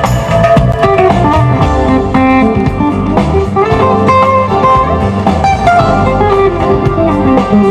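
A live band playing loudly at a sound check, with a guitar prominent among the instruments.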